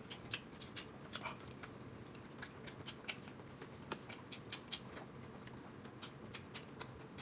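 A person chewing a mouthful of dumplings close to the microphone: soft, wet mouth clicks and smacks coming irregularly, several a second.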